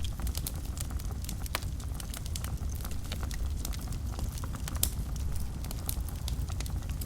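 Wood fire burning in a fireplace: a steady low rumble of the flames under frequent irregular crackles and pops, a few of them sharper and louder.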